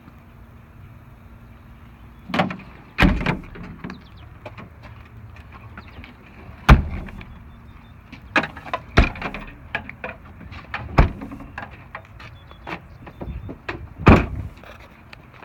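A series of sharp knocks and clunks at uneven intervals, a dozen or so, some much louder than others, like a truck's doors and latches being worked. A faint steady hum sits underneath for the first few seconds.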